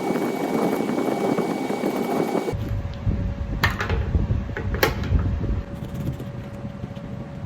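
Heater fan blowing steadily with a thin steady whine. About two and a half seconds in, the sound cuts to a lower rumble, with two sharp knocks over the next few seconds.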